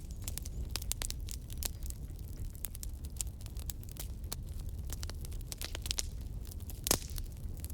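Campfire crackling: irregular sharp pops and snaps over a steady low rumble, with one louder pop near the end.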